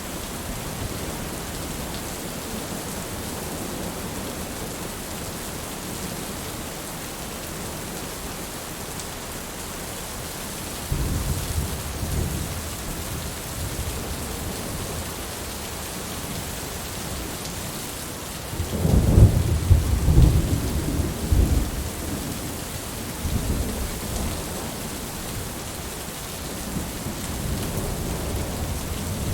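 Steady rain falling, with rolls of thunder: a first low rumble about a third of the way in, a louder, longer roll just past the middle, and another building near the end.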